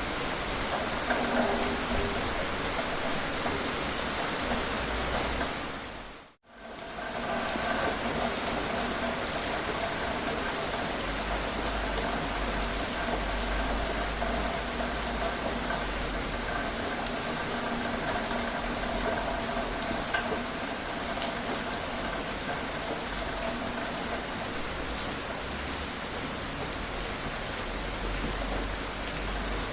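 Gentle steady rain falling, with no thunder. About six seconds in it briefly fades out to silence and back in.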